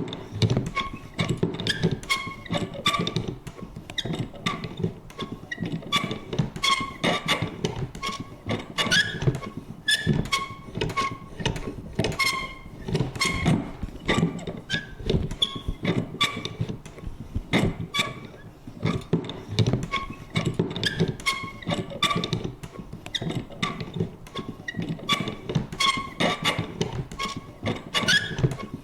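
Vintage paper punch worked over and over: a dense run of creaks and clunks, several a second, with short squeaky tones among them.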